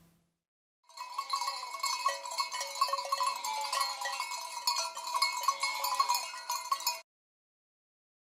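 Livestock bells clanking irregularly on a flock of sheep, with a few faint bleats among them. The sound starts about a second in and cuts off suddenly near the end.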